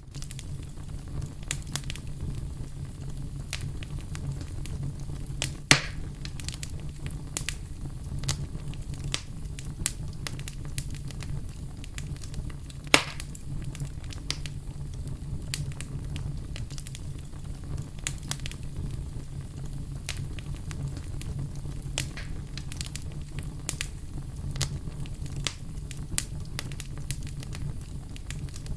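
Wood fire burning with a steady low rumble and irregular crackling, with two louder pops about six and thirteen seconds in.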